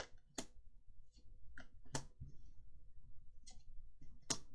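Magic: The Gathering trading cards being handled, giving a handful of sharp, irregularly spaced clicks and snaps, the loudest near the end.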